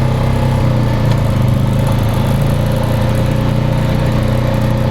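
Four-wheeler (ATV) engine idling steadily.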